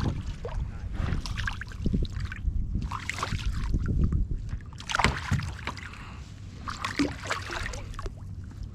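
Water splashing and sloshing against a kayak, with irregular bursts of handling noise over a steady low rumble.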